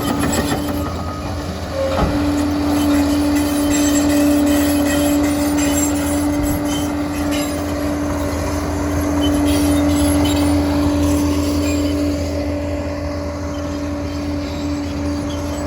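Liebherr PR 746 crawler dozer running, a low rumble under a steady whine that sets in about two seconds in, with a single knock at that point.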